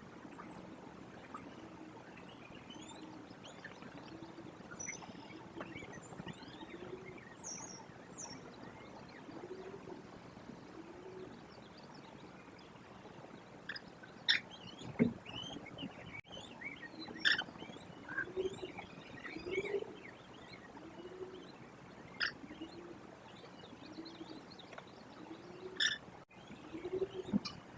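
Outdoor birdsong: small birds chirping and twittering at a distance, over a low call that repeats about once a second. A few louder, sharp calls stand out around the middle and near the end.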